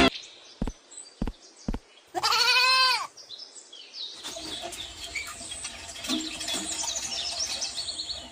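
A goat bleats once, a loud wavering call about two seconds in, after a few short clicks. A busier mix of short high chirps follows in the second half.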